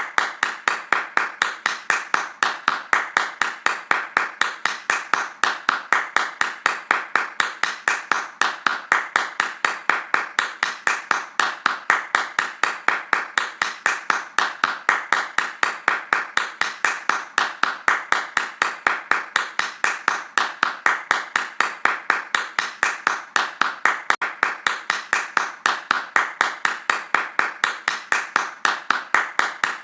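Hands clapping fast in an even, unbroken rhythm, several claps a second, at a steady level.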